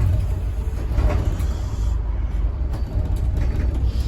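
A Scania N270UD OMNICity double-decker bus running, heard from inside the passenger saloon: a steady low engine rumble, with a brief rattle about a second in.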